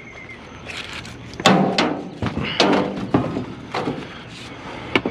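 A series of knocks and clanks from scrap being handled, about half a dozen sharp hits spread over a few seconds, some with a short ringing tone.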